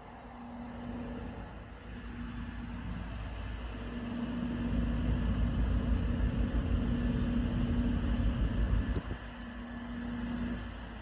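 A passing ship's engine droning steadily with a low rumble, growing louder for a few seconds in the middle and then falling away quickly.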